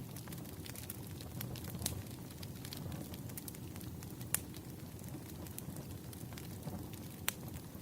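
Wood fire crackling: a steady low rush of burning logs with scattered sharp pops and snaps, the loudest about four seconds in and another near the end.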